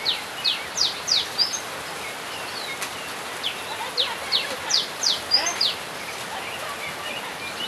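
A bird calling in runs of short, sharp high chirps, each sweeping quickly downward, a few a second, with a pause in the middle; a steady outdoor hiss underneath.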